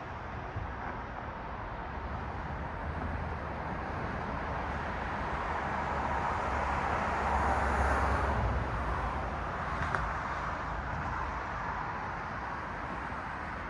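A car passing on a city street, its engine and tyre noise swelling to a peak about eight seconds in and then fading, over a steady background traffic hum.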